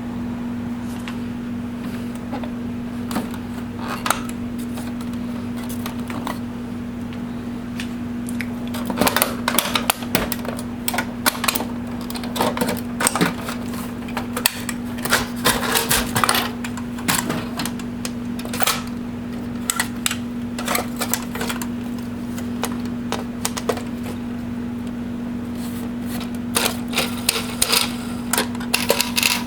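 Plastic parts of an HP OfficeJet Pro 8600 inkjet printer clicking and clattering as it is taken apart by hand, in rapid clusters of sharp clicks, over a steady low hum.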